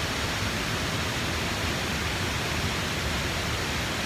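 Rushing water of a fast stream or waterfall, a steady even hiss.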